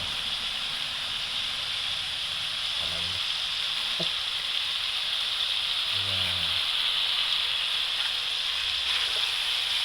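Burong kanin (fermented rice) with sautéed garlic, onion, ginger and tomato sizzling steadily in a frying pan as it is stirred.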